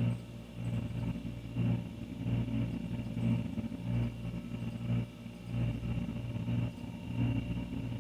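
Older refrigerator running with a steady low hum that swells and fades in a regular throb about once a second.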